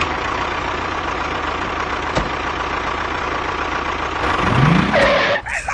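A vehicle engine running steadily, with a single sharp click about two seconds in and a short rising tone near the end.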